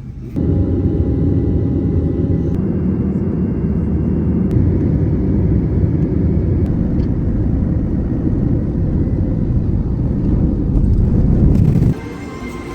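Steady low rumble of an airliner's jet engines heard from inside the cabin. It starts suddenly just after the start and cuts off suddenly about a second before the end.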